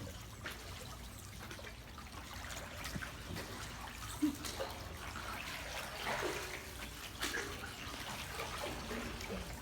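Canoe paddling: water trickling and dripping off the paddle, with small irregular splashes as it dips.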